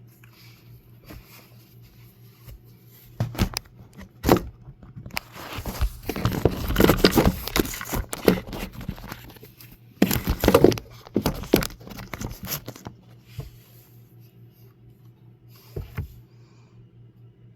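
Irregular rustling and crinkling with scrapes and a few sharp clicks, close to the microphone, over a faint steady low hum.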